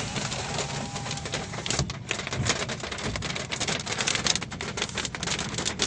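Rain pattering on a car's roof and windscreen, heard from inside the car, with a low rumble of the car underneath; from about a second and a half in, the drops turn into dense, irregular sharp taps.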